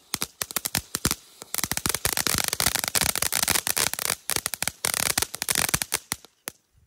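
Consumer fireworks going off at close range: rapid crackling pops and bangs in dense clusters, thinning out and stopping shortly before the end.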